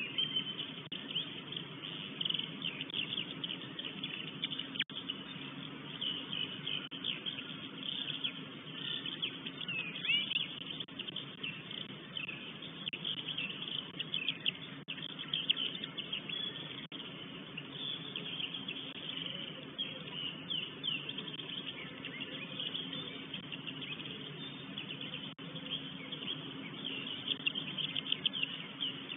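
Songbirds chirping and singing in the surrounding forest, many short calls overlapping throughout, over a steady low hum.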